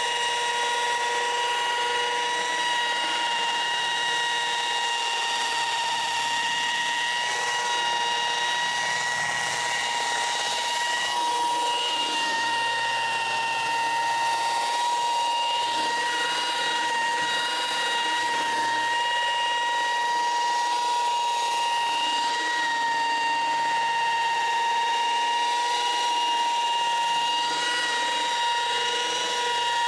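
Orbital car polisher running steadily on the paint, a continuous high motor whine that wavers slightly in pitch, during machine polishing to remove swirls and water spots.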